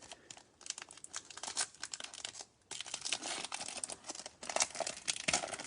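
Foil wrapper of a Bowman Chrome trading-card pack being torn open and crinkled, a dense run of crackles with a short pause about halfway.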